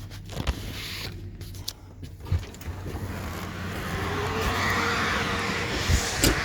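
Pickup truck's engine running as it is driven slowly and pulled up, with a hiss building up after a few seconds and a couple of sharp knocks near the end.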